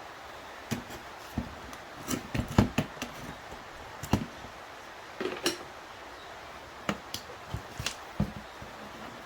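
Irregular clicks, knocks and metallic clinks as metal parts and hand tools are handled during the dismantling of a car seatbelt pretensioner mechanism. The knocks are scattered, with a cluster of louder ones a couple of seconds in.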